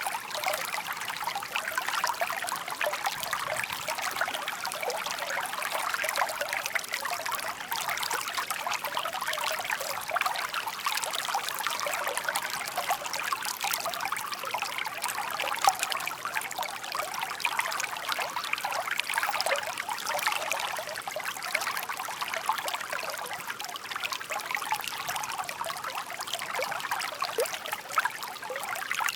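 A shallow park stream babbling and trickling over stones, a steady splashing with no breaks.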